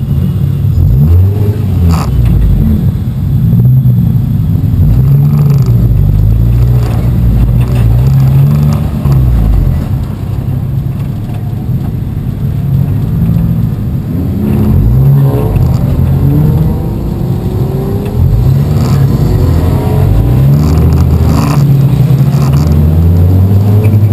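Race car engine heard from inside its bare, stripped cabin, revving up and dropping back again and again as the car accelerates and lifts off for corners. It eases off around ten seconds in and again around sixteen seconds, then pulls hard through the rest.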